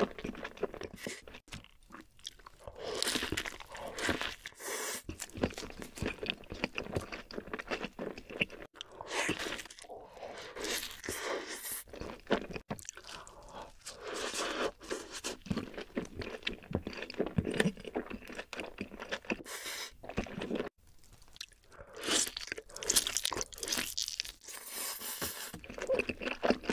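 A person biting and chewing a burger close to the microphone: irregular crunching bites and chewing throughout.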